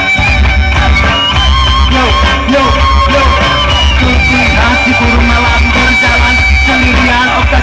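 A band playing a rock song live, loud and continuous, with a heavy bass pulse and long held melody notes.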